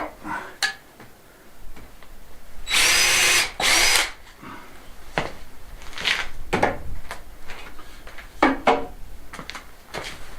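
Power drill run in two short bursts about three seconds in, drilling into a wooden frame to take a hook, with scattered knocks and clicks of handling around it.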